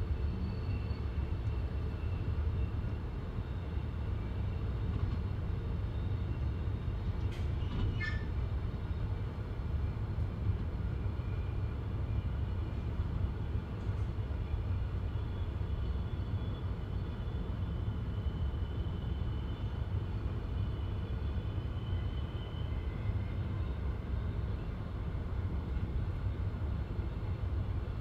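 Passenger train running at speed, heard from inside the carriage: a steady low rumble of wheels on rail with faint high whining tones above it. There are a couple of brief clicks about seven to eight seconds in.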